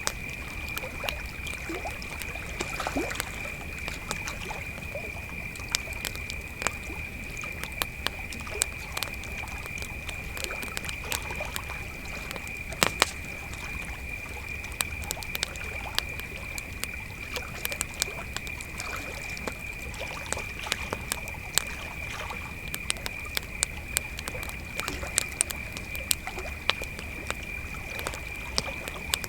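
Crickets chirping in an unbroken high drone, with a campfire crackling and popping throughout. The sharpest pop comes about 13 seconds in.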